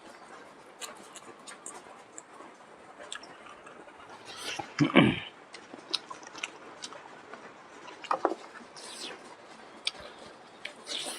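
Close-up eating sounds: chewing and small wet mouth clicks from someone eating salt pork and vegetables, with one louder, brief mouth sound about five seconds in.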